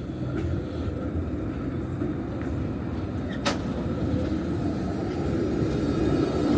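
Tram running on street track, a steady rumble growing louder as it approaches, with one sharp click about three and a half seconds in.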